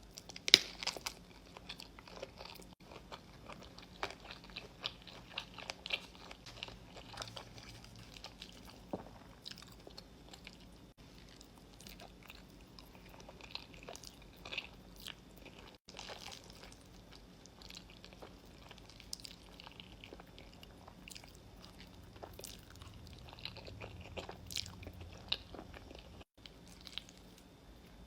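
Close-miked eating sounds: crunchy bites and chewing of cheesy food, with many crisp crackles and one sharp loud crunch about half a second in.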